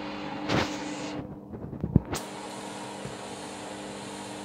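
Candy washing machine's drum motor running with a steady whirring hum while the drum turns to distribute the laundry. A brief swish comes about half a second in, and a sharp click about two seconds in.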